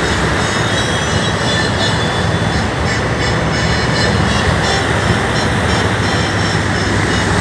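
Steady, loud rushing noise with no break or change.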